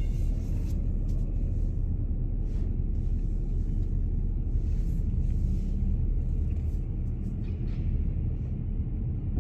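A car driving, heard from inside the cabin: a steady low rumble of engine and tyres, with a few faint clicks.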